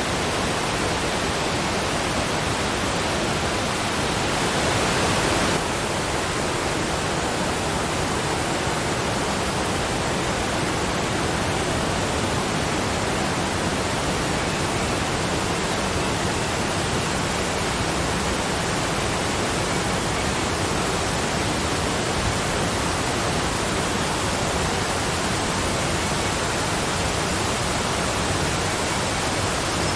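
Waterfall: a steady rush of falling water. It grows a little louder about four seconds in, then drops back suddenly a second and a half later.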